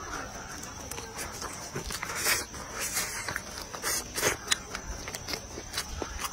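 Close-up mouth sounds of a person eating: chewing and lip smacking, with irregular wet clicks and a couple of longer smacks.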